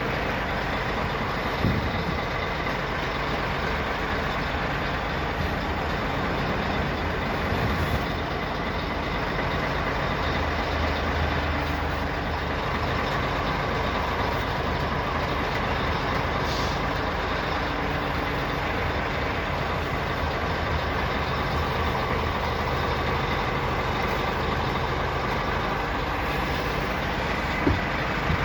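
Scania R500 truck engine running steadily, with a couple of short knocks, one near the start and one near the end.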